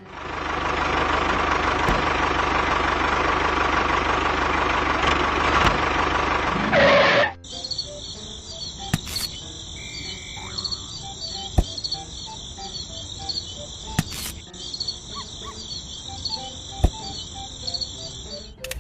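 A loud, steady noise with a hum that cuts off abruptly about seven seconds in. After it, insects chirping in a steady, pulsing high trill, with a few faint clicks.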